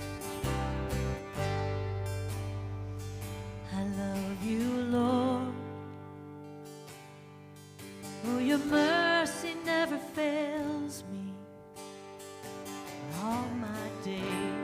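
Slow worship song: guitar and sustained keyboard chords, with a singer's voice coming in over them in phrases about four seconds in and again later.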